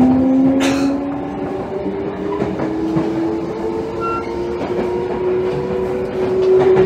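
Toei 5300 series subway train's Mitsubishi GTO inverter whining, its tones slowly rising in pitch as the train accelerates, over running noise with faint wheel clicks. A short hiss sounds about a second in.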